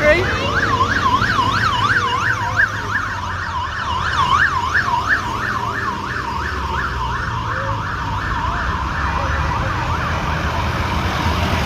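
Emergency-vehicle siren on its fast yelp setting, sweeping quickly up and down about three times a second, fading away near the end, over the low rumble of passing vehicle engines.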